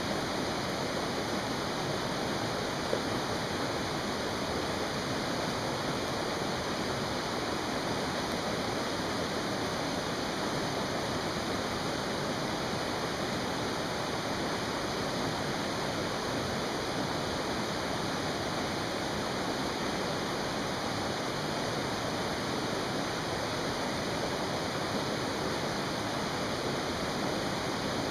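Mountain stream rushing steadily, with a single faint click about three seconds in.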